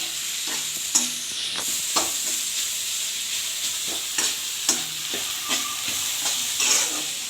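Onions frying in oil with ginger, garlic and green chili paste, sizzling steadily in a pan while being stirred. The stirring utensil scrapes and knocks against the pan several times.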